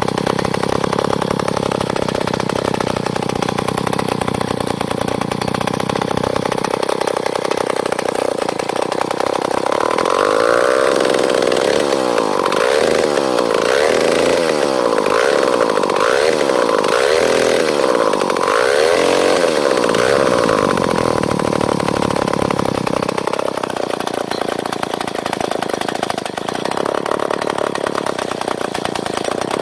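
Eclipse Wasp vintage two-stroke chainsaw engine running steadily, revved up and down repeatedly for about ten seconds in the middle, then settling back to a steadier note.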